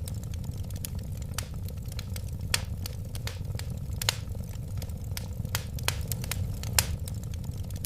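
Wood fire crackling steadily: irregular sharp pops and snaps over a low, even rumble of burning, with louder pops about four seconds in and near the end.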